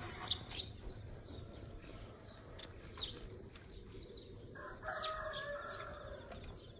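A rooster crowing once, faintly, from about four and a half seconds in for a second and a half, over a few short high chirps of small birds.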